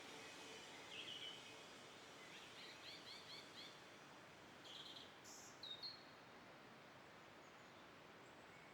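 Faint birdsong over near silence: a few short chirps, with a quick run of repeated chirps about three seconds in and a couple more near the middle.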